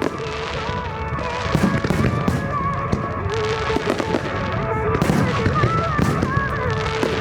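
Fireworks bursting and crackling again and again, over a song with a sung melody playing through the show's loudspeakers.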